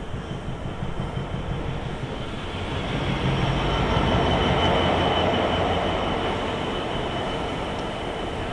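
Heritage railway train running on the line, a steady rumble with a faint high ring that swells to its loudest about halfway through and then eases off.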